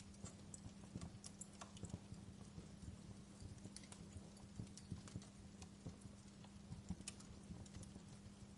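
Faint wood fire crackling in a fireplace: irregular small pops and snaps over a soft hiss, with a steady low hum underneath.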